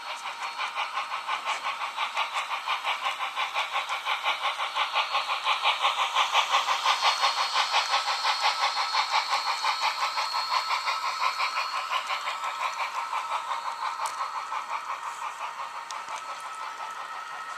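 HO-scale model train running past on the layout track: a steady rhythmic clatter of about four beats a second that grows louder towards the middle and fades away near the end.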